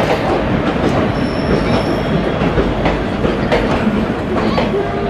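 Indian Railways passenger coaches rolling past close by, a steady loud rumble with the wheels clattering over the rails and a few sharp knocks.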